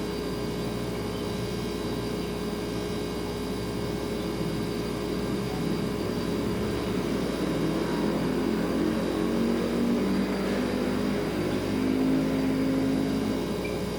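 Refrigerator running with a steady hum. From about halfway a second low drone swells in and fades again near the end.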